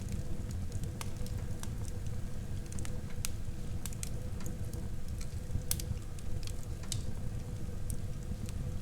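Wood fire burning in a fireplace, a low steady rumble with frequent sharp, irregular crackles and pops.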